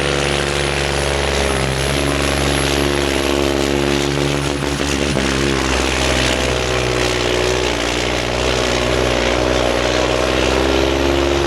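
A pulling truck's engine running hard under load as it drags the weight sled down the track, with a high whine over the engine note that rises in the first couple of seconds and then holds.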